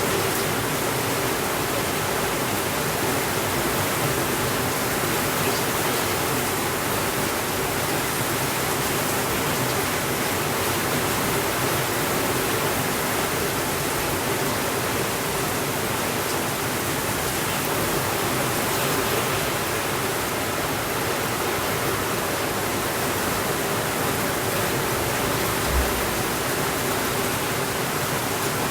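Steady rainfall, an even unbroken hiss of rain, with a single brief low thump near the end.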